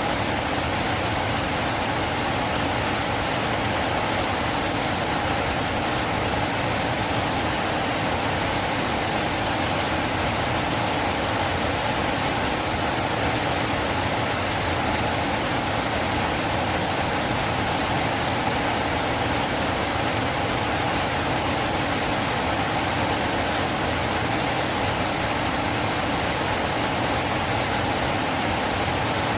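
Steady rushing of a river's flowing water: an even, unbroken wash of sound.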